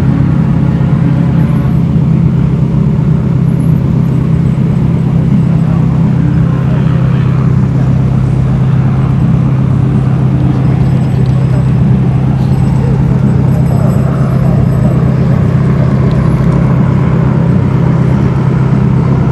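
A car engine idling steadily close by, with a constant low hum that does not rise or fall, and faint voices in the background.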